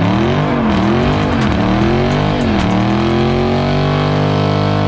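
Car engine being revved: three quick up-and-down blips, then held at high revs for about two seconds before falling off at the end.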